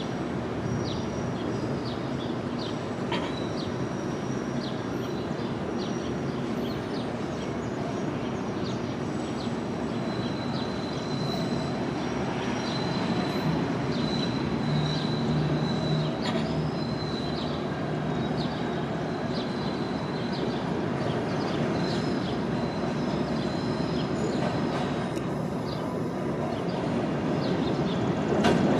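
A CTA 'L' rapid-transit train moving along the track: a steady rumble with scattered sharp clicks and, at times, a thin high wheel squeal. It swells toward the end.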